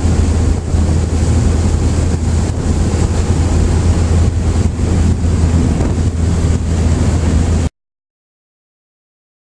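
Steady, loud drone of a jump plane's propeller engines heard from inside the cabin, with wind noise over it; it cuts off suddenly to silence near the end.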